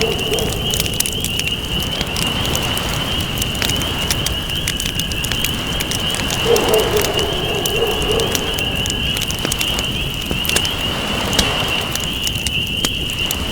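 Wood campfire crackling with frequent sharp pops over a steady rushing wash of waves. A steady high trill carries on underneath, and a short low wavering call comes in about six and a half seconds in.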